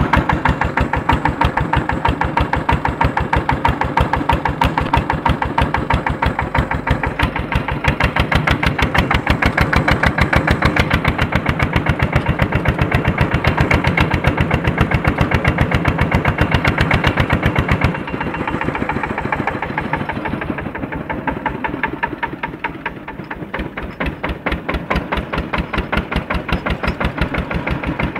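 Tractor's Andoria diesel engine running under load while pulling a harrow, a rapid, even chugging of firing strokes. About 18 seconds in it drops lower and quieter, then builds back up near the end.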